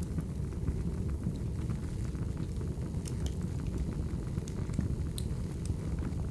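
Crackling wood fire: a steady low rumble of flames with sharp pops and crackles scattered through, a few louder pops around the middle.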